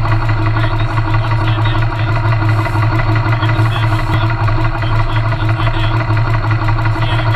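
Yamaha Silverado motorcycle's 1700cc V-twin engine idling steadily, at an even, unchanging pitch.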